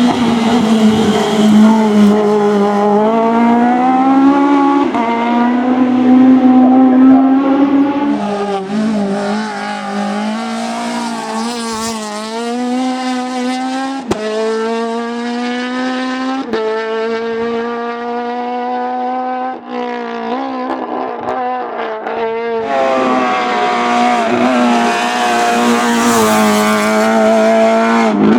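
Citroën AX competition car's four-cylinder engine run hard at high revs: the pitch climbs through each gear and drops sharply at the shifts, several upshifts in a row, easing off twice before pulling hard again.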